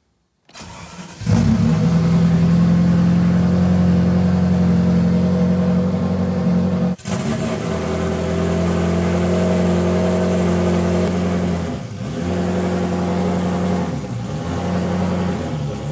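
Ferrari F40's twin-turbo V8 with straight-pipe exhaust being started: it turns over briefly, catches about a second in, and settles into a loud, steady idle. The idle dips briefly about twelve seconds in.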